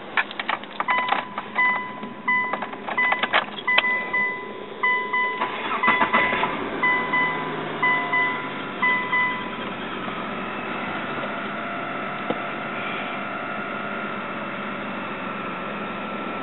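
Keys rattling and the car's warning chime beeping about one and a half times a second, then the 2003 Dodge Stratus's 2.4-litre DOHC four-cylinder cranks and starts about six seconds in and settles into a steady idle. It is the first start after an oil change, run to circulate the new oil through the filter.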